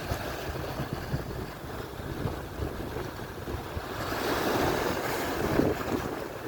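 Atlantic surf washing on the shore, with wind buffeting the microphone; a wave swells up and breaks about four seconds in.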